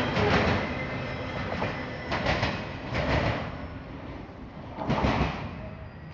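Cars of a mixed freight train rolling past, with the wheels clattering in separate bursts over rail joints. The rumble fades near the end.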